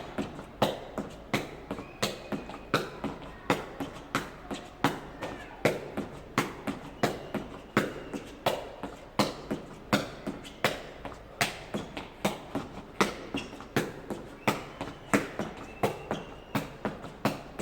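A jegi, the Korean shuttlecock, kicked up again and again with the inside of the foot: a steady run of sharp taps, about three every two seconds, each kick keeping it in the air.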